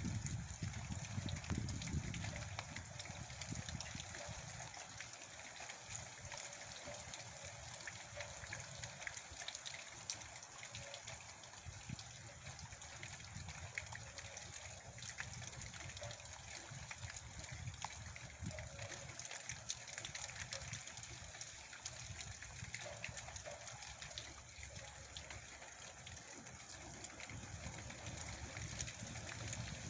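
Steady heavy rain, with many small drop strikes and a low rumble that is strongest for the first couple of seconds.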